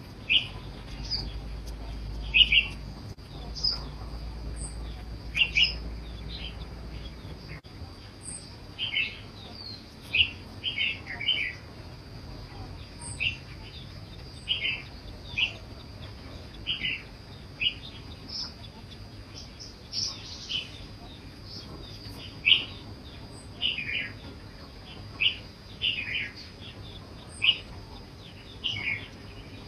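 A bird's short, sharp chirps, repeated about once a second, over a faint steady high tone.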